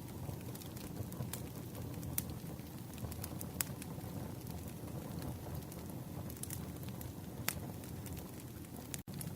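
Wood campfire crackling: irregular sharp pops and snaps over a steady low rumble of burning logs. It cuts out for an instant near the end.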